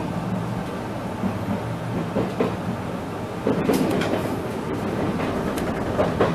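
Enshu Railway electric commuter train (set 2006F) running at speed, heard from inside the front of the car: a steady low running hum with scattered sharp clacks of the wheels over rail joints.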